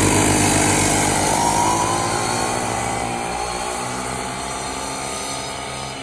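40cc two-stroke pocket bike engines running, fading steadily as the bikes pull away, with the pitch rising a little about a second in.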